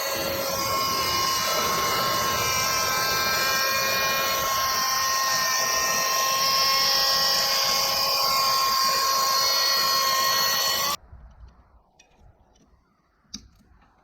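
Logosol E5 electric speedsaw's chain running through a log on the M8 sawmill, a loud steady high whine that cuts off abruptly about eleven seconds in, followed by a faint click.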